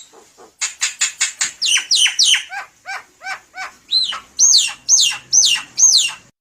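Javan myna singing: a quick run of sharp, falling whistled notes, then a series of loud arched whistles at about two to three a second.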